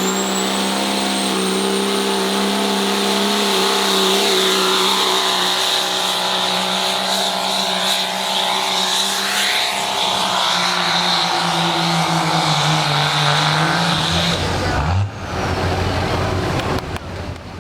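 Diesel pickup truck's engine held at high revs under full load as it pulls the sled, with a high turbo whistle that rises at the start and then holds. The engine note sags slightly near the end and breaks off about fifteen seconds in.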